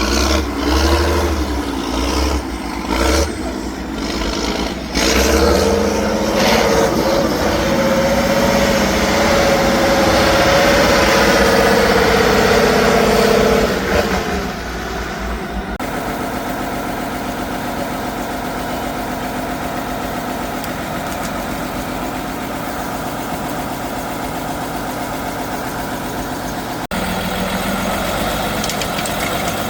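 Heavy off-road truck engine revving hard, its pitch climbing, for the first half; then it changes abruptly to a steadier, quieter engine running at lower revs, with another sudden change near the end.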